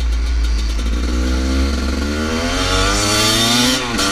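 Husqvarna TE300i two-stroke dirt bike engine accelerating, its pitch climbing steadily and then dropping sharply near the end at a gear change. Wind rumbles on the helmet microphone.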